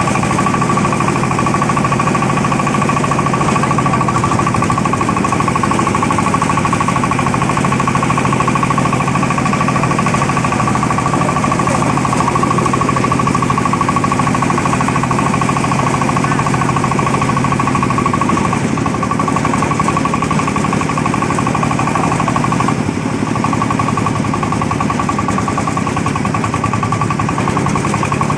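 Jiang Dong 24 hp single-cylinder diesel engine running steadily with a rapid, crisp firing clatter, strong and even. The low end thins slightly about two-thirds of the way through.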